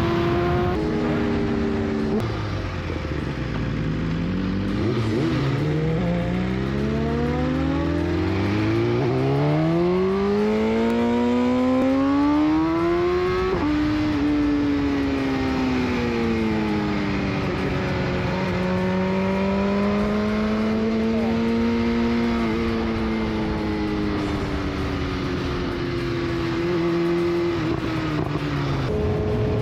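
Vehicle engine accelerating, its pitch climbing steadily for about ten seconds before dropping sharply, as at a gear change. After that the engine speed rises and falls gently, with wind and road noise throughout.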